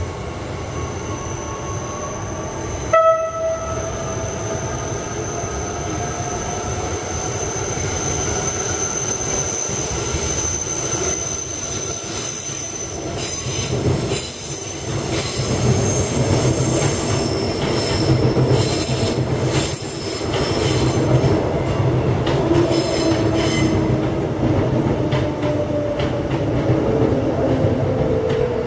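Queensland Rail ICE electric train sets moving through the station tracks. A steady, high wheel squeal runs through the first half, and a short horn toot sounds about three seconds in. Later come wheel clicks over rail joints and a lower whine that falls in pitch near the end.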